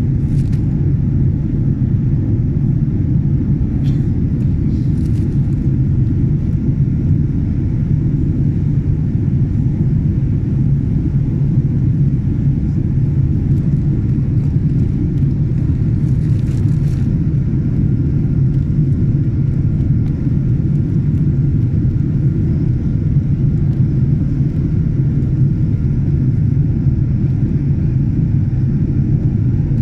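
Steady low rumble inside a jet airliner's cabin: engine and airflow noise with a faint constant whine, and a few faint ticks.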